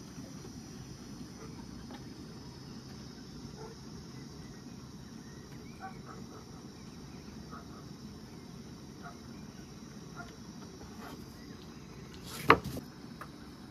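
Crickets chirping steadily over a low background hum, with faint soft ticks of handling, and one sharp knock near the end.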